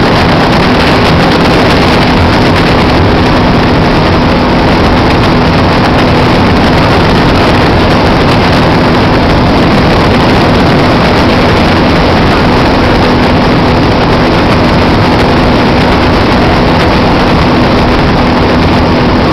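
Motorboat engine running loud and steady at constant speed, a continuous drone with a steady hum and no change in pitch.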